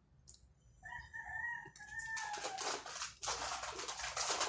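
A rooster crowing once, a held call that falls off at the end, followed by a dense crackling of corn chips being handled and crunched.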